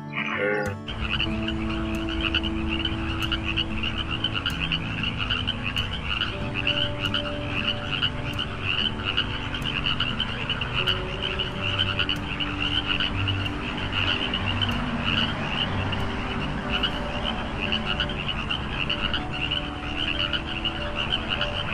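A dense chorus of many frogs calling: a fast, high pulsing trill that never lets up, with lower croaks coming in and out beneath it.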